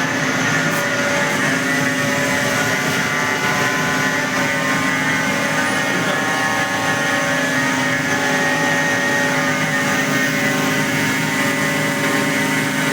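Danfoss Series 90 axial piston hydraulic pump (90R250) running steadily on a test bench in neutral: a steady hum with a whine of several fixed tones.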